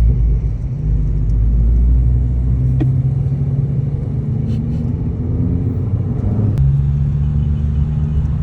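Car engine running with a deep, steady rumble, its note stepping to a new pitch about a second in and again near the end.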